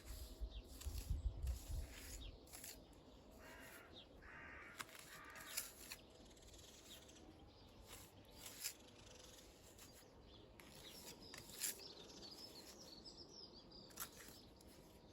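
Faint bird calls, with a couple of louder calls about four to five seconds in, over scattered light clicks and taps.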